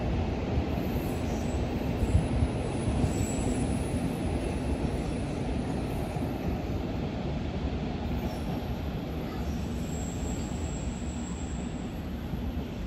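London Underground S Stock train running with a steady low rumble and electric hum that slowly gets quieter, with faint high wheel squeals now and then.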